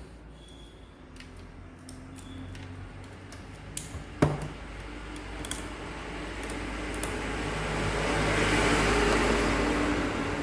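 Parts of a laser printer's fuser unit being handled: scattered light clicks, one sharp knock about four seconds in, then a rubbing noise that swells and eases off near the end.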